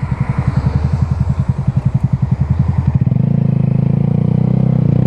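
A vehicle engine running with a rapid low pulse for about three seconds, then smoothing into a steadier hum as its speed rises slightly.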